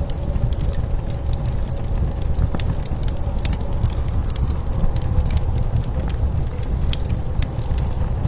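Wood fire crackling, with sharp irregular pops, over the steady low rumble of blizzard wind.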